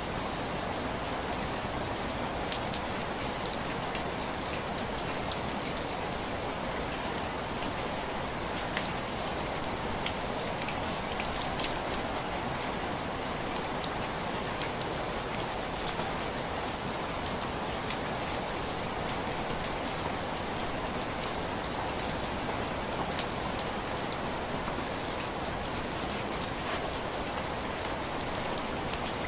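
Steady rain on window glass: an even hiss with scattered sharp taps of single drops.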